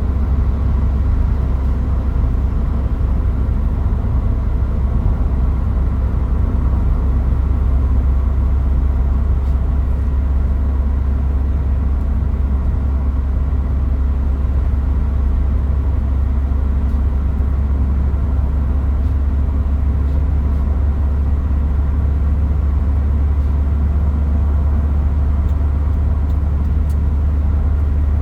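Toyota Hilux Mighty-X pickup on the move, its engine and road noise making a steady low drone that holds even throughout without revving up or down.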